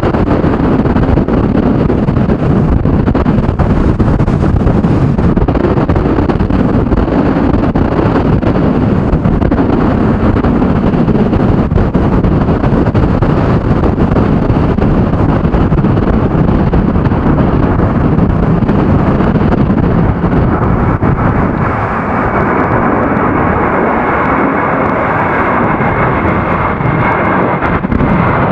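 Storm-force gusting wind buffeting the microphone with a heavy rumble, under the jet noise of a Boeing 737-800 on approach. About two-thirds of the way through, a faint steady high engine whine appears and grows.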